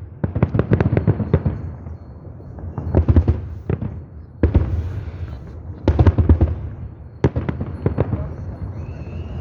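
Fireworks salute: volleys of shell bursts, each a cluster of sharp cracks over heavy low booms, coming every second or two.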